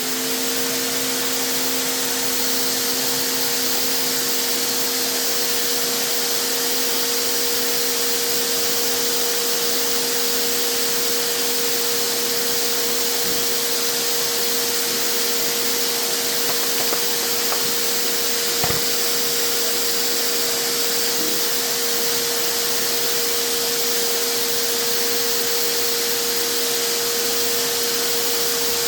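Vacuum cleaner motor running steadily, blowing air into a blocked motorcycle exhaust to pressurise it for a leak test. Its whine rises as it spins up at the very start, then holds one steady pitch.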